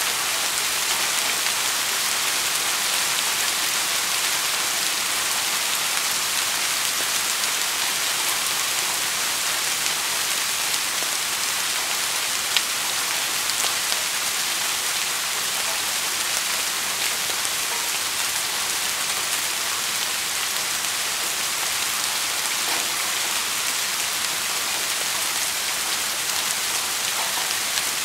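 Steady rain falling, a dense even hiss of many drops with one sharper single drop standing out about halfway through.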